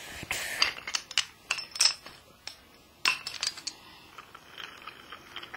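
Toy trains and freight cars clicking and clacking as they are pushed along by hand, a quick irregular run of sharp clicks that thins out and grows fainter after about three seconds.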